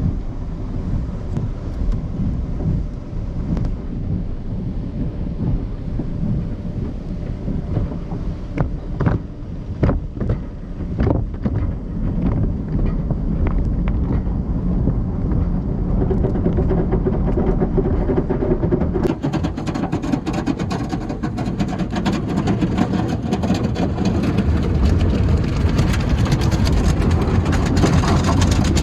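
Soft-cloth tunnel car wash heard from inside the car: a steady rushing rumble of the wash equipment working on the body, with a run of sharp slaps about eight to eleven seconds in. The sound turns hissier about nineteen seconds in.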